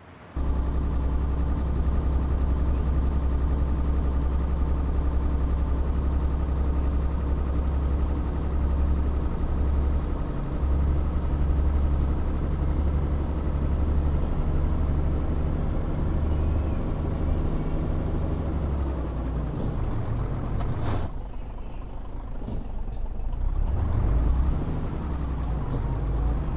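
Tanker truck's diesel engine running steadily under way, heard from the cab. About 21 seconds in the engine note drops off and the sound goes quieter for a couple of seconds, then the engine picks back up.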